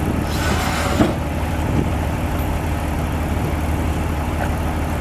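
Heavy diesel engine of earth-moving equipment running steadily. About half a second in there is a brief hiss, which ends in a knock.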